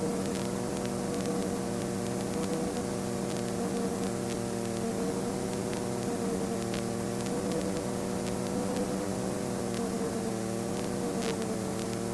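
Ultralight aircraft engine droning steadily in the cockpit, heard as a hum with a slightly wavering tone and hiss, with a few faint clicks.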